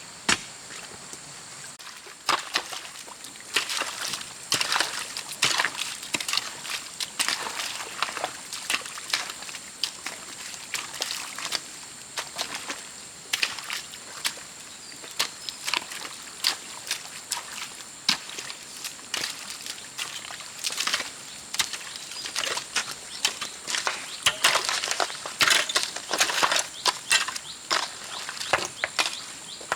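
Wet paddy mud being dug and worked: irregular wet slaps, squelches and splashes, sometimes several in quick succession, over a steady high hiss.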